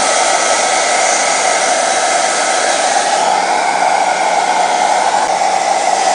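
Handheld blow dryer running steadily, a constant rush of blown air with a faint low hum, drying freshly bathed bantam chickens.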